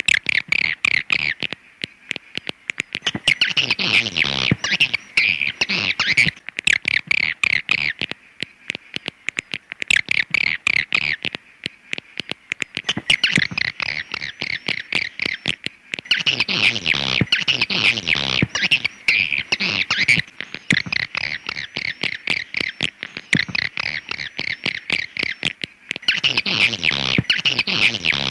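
Swiftlet call sound: rapid chattering twitters and clicks, repeated in bursts of a few seconds with short pauses between them.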